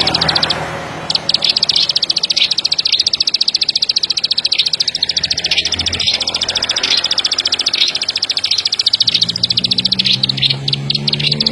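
A ciblek sawah (rice-field prinia) singing a long, rapid run of high, evenly repeated notes, about a dozen a second, after a brief pause near the start. A low droning tone comes in underneath near the end.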